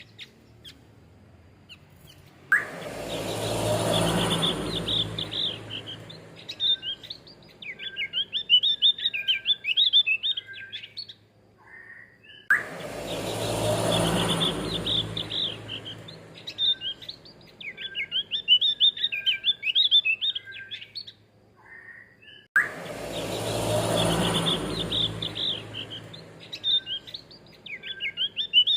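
Male Javan grey-throated white-eye singing fast, chattering chirp phrases. The same roughly ten-second stretch repeats three times, each time opening with a broad rushing swell under the song before the dense chirping.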